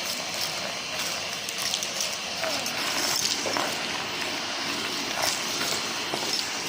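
Numatic James cylinder vacuum running steadily while picking up debris, with small bits clicking and crackling as they rattle up the hose.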